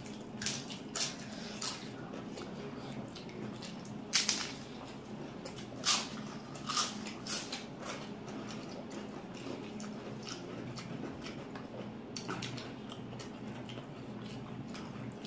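Close-up eating sounds of spicy egg curry and rice being chewed: wet chewing and lip smacks with a few sharp smacks or crunches, the loudest about four and six seconds in, over a steady low hum.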